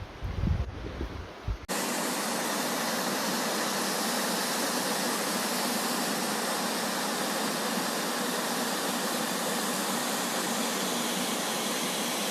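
Wind buffets the microphone with low gusts, then the sound cuts abruptly, less than two seconds in, to a steady, even rush of flowing water.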